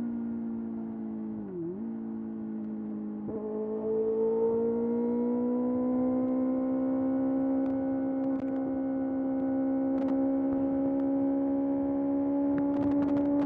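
Kawasaki ZX-6R's inline-four engine running at steady road revs. Its pitch dips briefly and recovers about two seconds in, steps up a little after three seconds, then climbs slowly as the throttle is held on.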